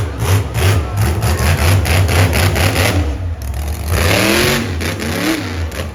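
Monster truck engine running loud and rough, with a rev that rises and falls about four seconds in.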